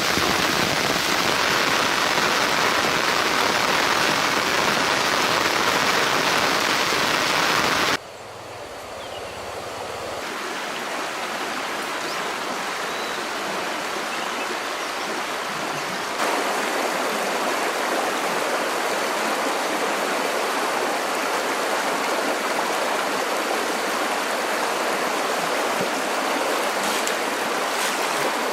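Steady rushing of water, an even hiss with no distinct events. It drops away sharply about eight seconds in, swells back within a couple of seconds, and steps louder again near sixteen seconds.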